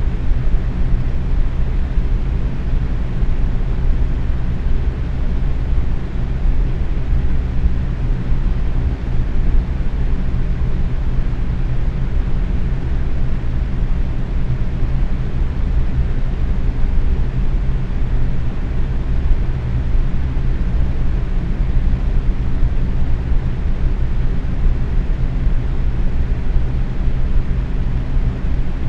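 Box fan running steadily at medium speed: an even rush of air with a low, steady hum underneath.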